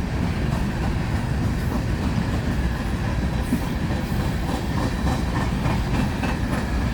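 Coal train's freight cars rolling past at speed: a steady rumble of steel wheels on the rails.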